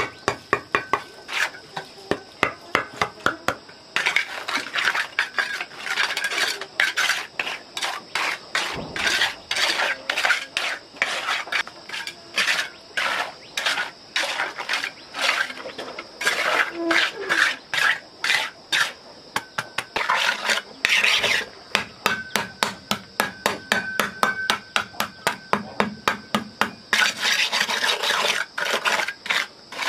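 Rapid, regular scraping strokes, about three a second, with a brief pause around four seconds in.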